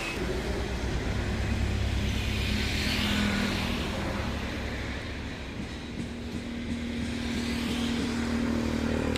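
Eicher Pro 3019 truck's diesel engine running steadily with a low hum.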